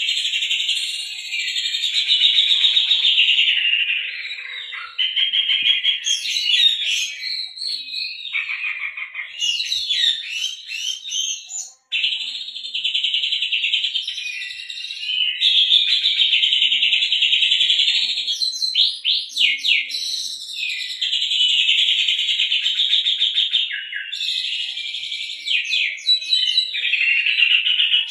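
Oriental magpie-robin singing a long, loud, fast song packed with canary-style trills and chatter, mimicry learned from canaries. The song runs almost without pause, breaking briefly about twelve seconds in, and is broken up by runs of quick sweeping notes.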